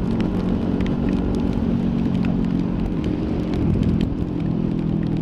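2018 Kawasaki Ninja 400's parallel-twin engine running at a steady cruise, picked up by a helmet or bike-mounted mic, with wind and road noise under it.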